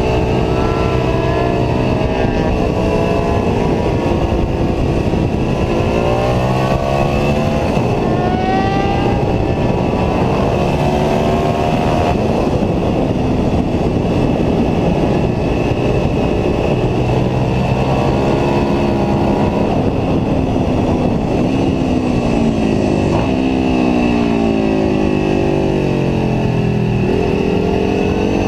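Ducati 749S superbike's V-twin engine heard onboard at track speed, its pitch climbing and then dropping again and again as it accelerates hard through the gears and slows for corners, over steady wind rush.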